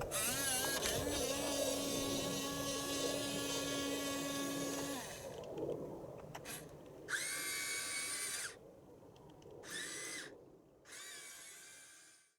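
Small electric motors of a Huina RC excavator whining: one long steady whine that rises at the start and stops about five seconds in, then three shorter whines that start and stop abruptly.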